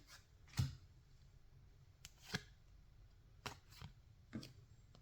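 Baseball trading cards being handled and slid one behind another, giving about five brief, soft swishes and taps at irregular spacing.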